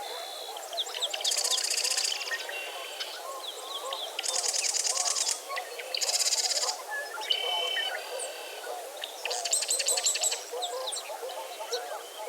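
Dawn chorus of many birds at a bird refuge: short bursts of rapid high trills repeat every couple of seconds over a constant dense chatter of lower calls.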